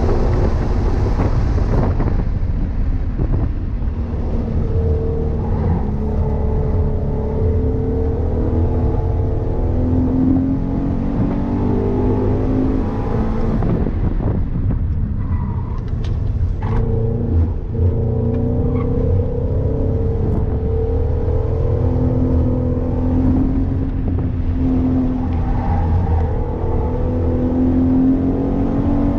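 Subaru BRZ's flat-four engine heard from inside the cabin while the car is driven on a track, its pitch rising and falling again and again as it accelerates and lifts, over a steady rumble of road noise. There are a few brief knocks about halfway through.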